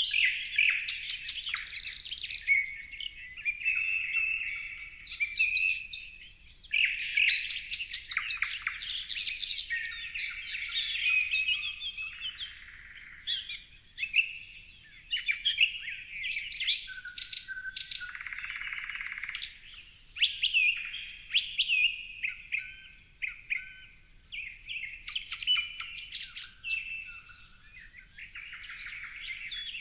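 Several birds chirping and singing at once, many short overlapping calls and trills, with a brief buzzy call a little past the middle.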